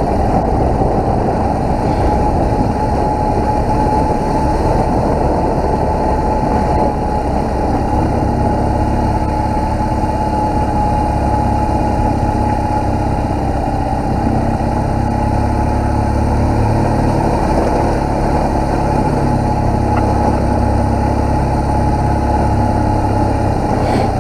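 BMW R1200GS's boxer-twin engine running steadily while the motorcycle is ridden, heard through a chin-mounted helmet camera's built-in microphone.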